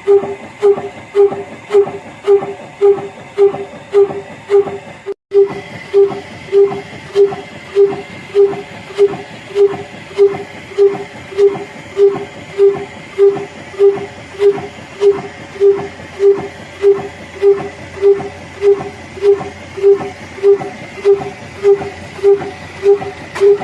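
Old single-cylinder 'black engine' diesel running steadily at slow speed, driving a flour mill, its exhaust beating evenly at about two beats a second, with a faint steady high whine under it. The sound cuts out for a moment about five seconds in.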